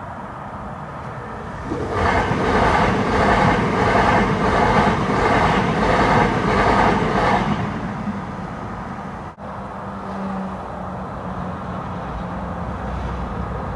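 Electric passenger train passing over a level crossing at speed. It comes in suddenly about two seconds in as a loud rush with a regular clatter of wheels, about two beats a second, and dies away after about six seconds.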